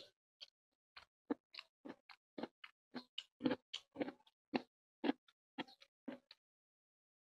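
Close-miked wet chewing and lip-smacking of a mouthful of rice and fish curry eaten by hand, in short smacks about two to three a second that stop about a second before the end.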